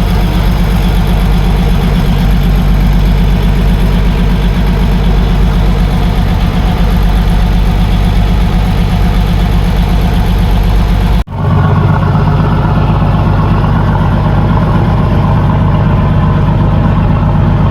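Fishing boat's engine running steadily and loudly, heard close on board. It breaks off for an instant about eleven seconds in and carries on with less deep rumble.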